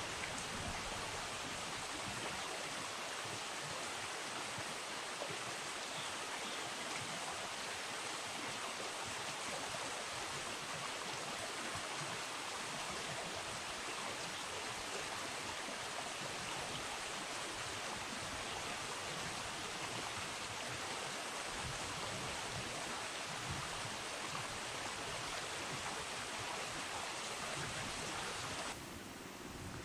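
Steady rush of flowing river water, an even hiss with no distinct events, which drops suddenly to a quieter level just before the end.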